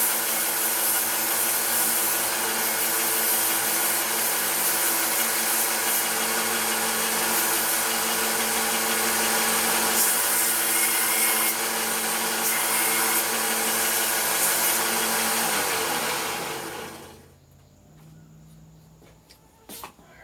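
Electric power tool cleaning up a cleaver handle, running steadily, then switched off about sixteen seconds in, its motor winding down in pitch until only a faint hum is left. A couple of light clicks come near the end.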